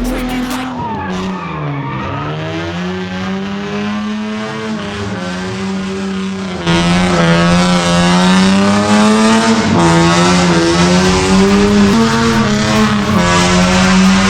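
Car engine revving hard: the pitch dips and climbs back, then holds at high revs with the note bouncing, over tyre squeal typical of a drift run. It gets louder about seven seconds in.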